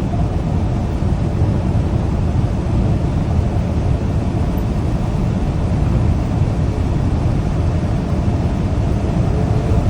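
Steady low rumble inside a moving semi truck's cab: engine drone and road noise while driving.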